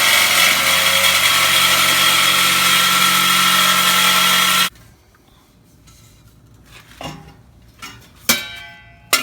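Power saw cutting through the truck's exhaust pipe to take off the old exhaust tip. It runs steadily and cuts off abruptly about four and a half seconds in, followed by a few sharp metal knocks.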